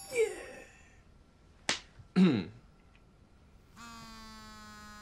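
A sharp smack about one and a half seconds in, with short breathy vocal sounds around it. Then, from about four seconds in, a mobile phone buzzes steadily for about two seconds with an incoming call.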